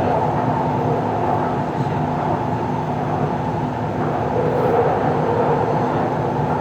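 Taipei Metro C341 subway train running between stations, heard from inside the car: a steady rumble of wheels on rail and running gear, with a faint steady hum underneath.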